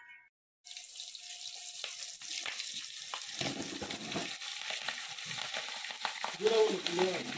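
Pieces of spice-marinated chicken feet sizzling as they fry in hot oil in a kadai. The sizzling starts suddenly about a second in and then holds steady.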